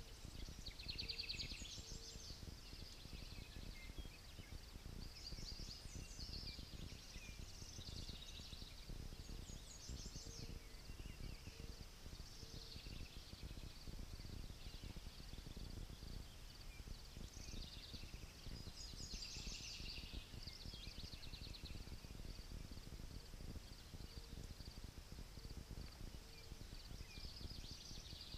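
Songbirds singing short trilled and chirping phrases, repeated every few seconds, over a steady low rumble of wind.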